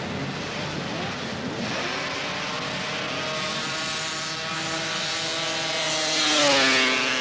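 A racing snowmobile's two-stroke engine screaming down a grass drag strip and passing by. It grows louder, is loudest about six seconds in, then drops in pitch as it goes past.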